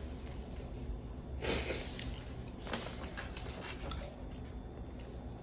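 Quiet room tone with a person's short audible breath about a second and a half in, followed by a few soft clicks.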